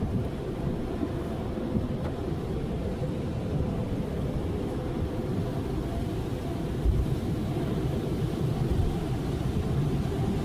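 Automatic car wash running: a steady low rumble with no letting up, and a short knock about seven seconds in.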